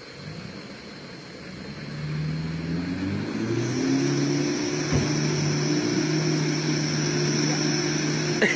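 4WD pickup truck engine revving up, louder from about two seconds in, its pitch climbing in steps and then held high and steady. A thin high whine joins about halfway through.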